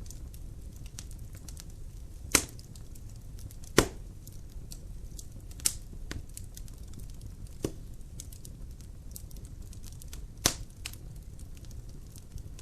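Wood logs burning in a fireplace: a steady low rush of the fire under scattered faint crackles, with five sharp, loud pops at irregular intervals.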